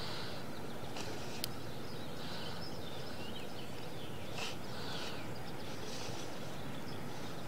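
Steady background noise with faint birds chirping now and then, and a single sharp click about a second and a half in.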